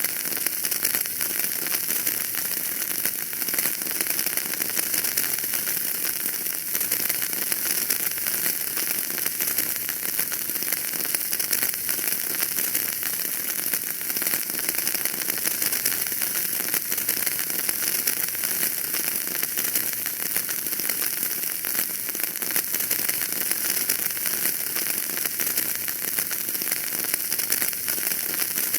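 Wood fire burning in a fireplace, crackling steadily: a dense stream of small pops over a constant hiss.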